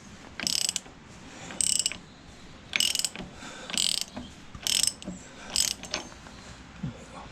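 Socket ratchet clicking in about six short strokes, roughly one a second, as the rebuilt hydraulic pump is turned by hand. The pump is no longer seized.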